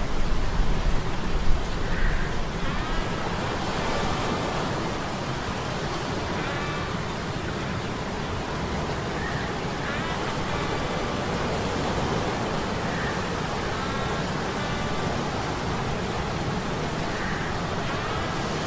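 Sea-storm ambience: a steady rush of surf and wind, with a low rumble that swells in gusts in the first few seconds. Under it, a faint metallic gear hum with short ringing tones that recur every few seconds.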